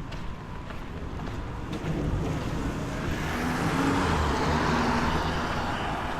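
A car passing on a rain-wet street: its engine hum and the hiss of its tyres on the wet pavement build from about two seconds in, peak around four to five seconds, and fade near the end.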